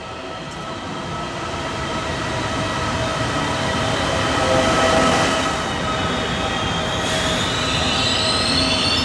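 Train running on rails with its wheels squealing in several steady high tones. It grows louder to a peak about halfway through, and a squeal glides upward near the end.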